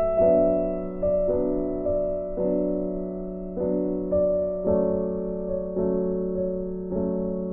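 Background music: slow electric piano or keyboard notes struck about once a second, each fading, over a steady low drone.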